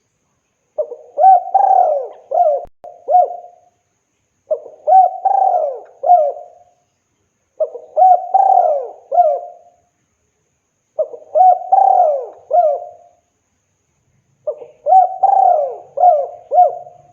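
Male spotted dove (tekukur) giving its cooing call to attract a female: five phrases of four or five coos each, with short pauses between phrases.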